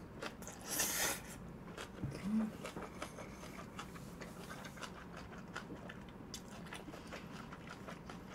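Close-miked chewing of sticky jjapaghetti noodles: a run of small, irregular wet mouth clicks, with one louder noisy burst about a second in.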